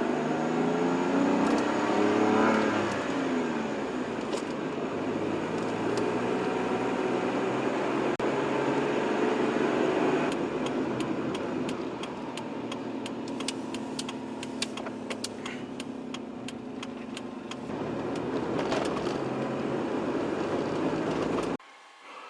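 Car engine pulling away, its pitch rising over the first couple of seconds, then running steadily with a run of light clicks in the middle; it cuts off shortly before the end.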